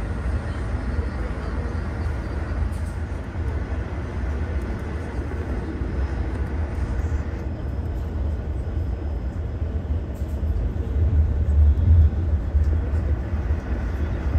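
Passenger train running along the track: a steady low rumble of wheels on rails, swelling briefly a little past the middle.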